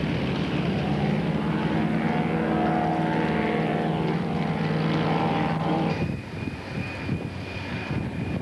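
Propeller airplane's piston engine running loud and steady as it passes close by, then falling away about six seconds in, leaving a thin high whine.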